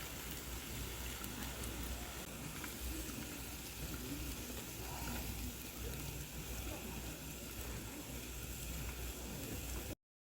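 Pork belly sizzling on a grill over a wood fire, a steady hiss with faint scattered crackles, cutting off suddenly near the end.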